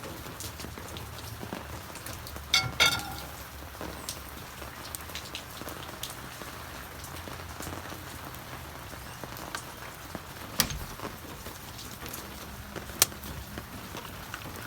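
Steady patter of rain falling, with a few sharp knocks: two close together a few seconds in, and two more later.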